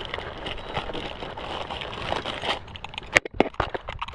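Crackling, rustling handling noise, then a quick run of sharp clicks and knocks about three seconds in.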